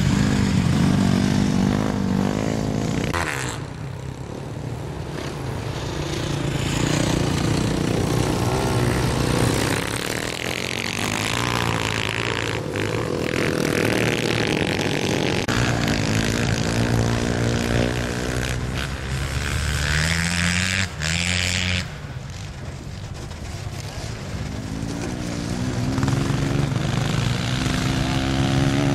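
Several four-stroke single-cylinder dirt bikes, 187cc pit bikes and Honda CRF450s, racing laps. Their engines rev up and down as they shift and pass, one after another, with brief quieter moments as they move away.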